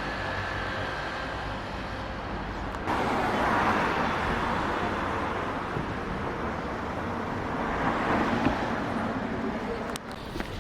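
Steady vehicle noise: a low engine hum under a rushing noise. The rush jumps louder at a cut about three seconds in and drops at another cut near the end.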